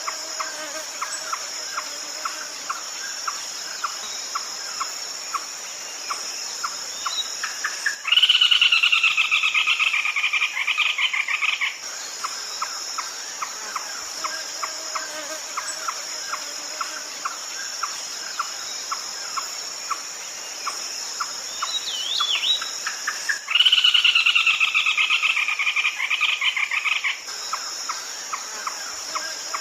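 Red-legged crake calling: two loud runs of rapid notes, each about 3.5 s long and falling slightly in pitch, the first about eight seconds in and the second about fifteen seconds later. Softer rapid pulsing notes fill the gaps, over a steady high-pitched insect drone.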